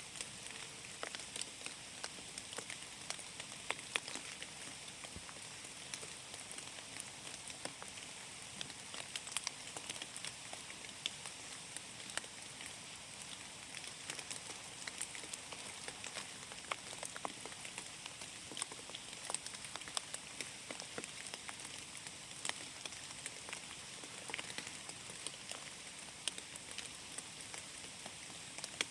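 Rain falling in a forest: a steady hiss with many irregular drops tapping.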